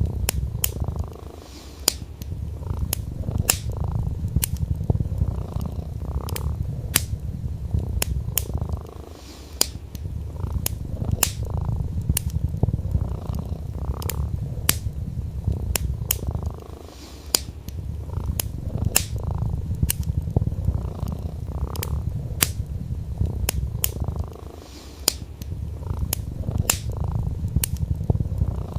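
A domestic cat purring in a steady low rumble that dips briefly about every seven to eight seconds, under frequent sharp crackles and pops from a wood fire burning in a fireplace.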